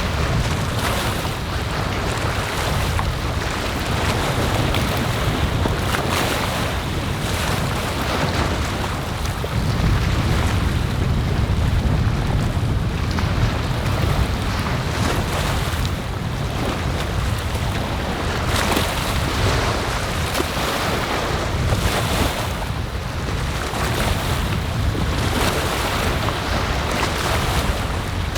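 Strong sea wind buffeting the microphone with a deep rumble, over the wash of waves breaking on the shore, swelling and easing every few seconds.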